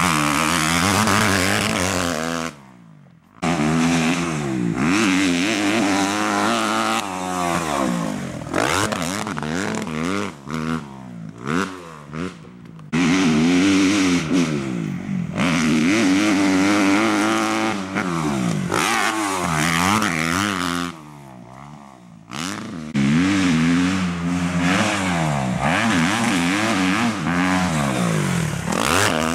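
Kawasaki KX250F's single-cylinder four-stroke engine revving, its pitch climbing and falling again and again as the throttle is opened and shut through the gears. There is a choppy run of quick blips in the middle, and the sound drops away briefly twice, a few seconds in and again about two-thirds through.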